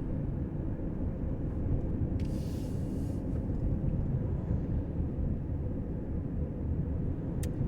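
Steady low road rumble of a car driving along, with a brief burst of hiss about two seconds in.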